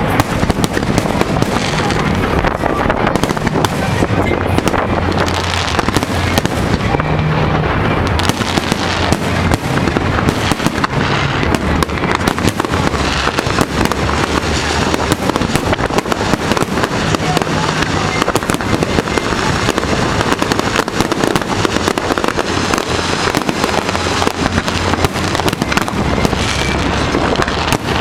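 Fireworks display going off in a continuous barrage of rapid bangs and crackles, with no let-up, over steady background music.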